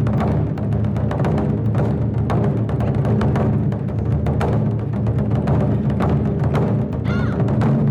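Ensemble of Japanese taiko drums playing a fast, continuous rhythm: deep drum tones under a dense run of stick strokes. A brief wavering high tone sounds about seven seconds in.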